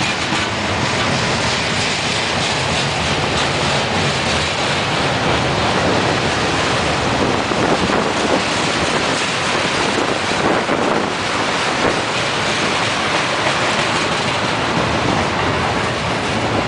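Freight cars of a manifest train rolling past close by: a steady, loud rumble and clatter of steel wheels on the rails.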